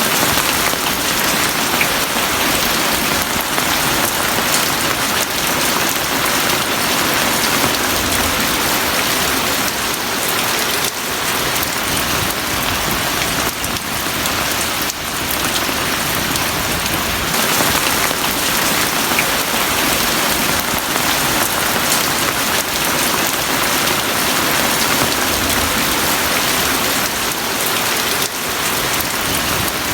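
Heavy rain falling steadily and densely, a continuous even downpour.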